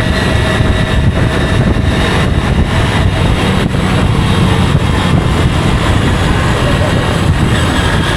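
Motorcycle running steadily on the road, its engine and road noise continuous.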